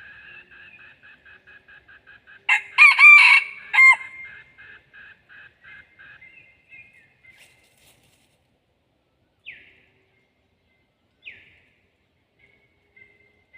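A red junglefowl rooster crows once, a short loud crow about two and a half seconds in, over another bird's rapid repeated chirping. Two brief downward-sweeping bird calls follow later.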